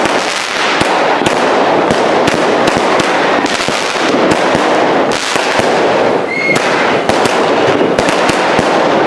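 Consumer firework cake firing a rapid, continuous barrage of shots whose stars burst with dense crackling, loud throughout.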